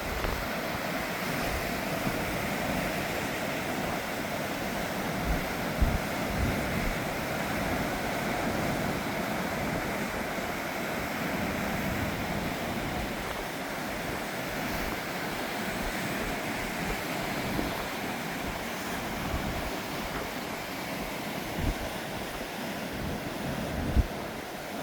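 Mediterranean sea waves washing steadily onto the beach, a continuous surf hiss. A few brief low thumps from wind buffeting the microphone.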